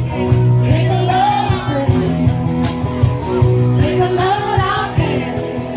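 Rock song with sung vocals over a band: sustained bass notes, guitar and a steady drum beat.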